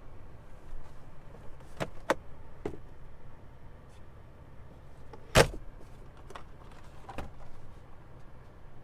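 Several light latch-like clicks and one solid thump about five seconds in: a door or lid on a 2020 Toyota Sienna minivan being handled and shut.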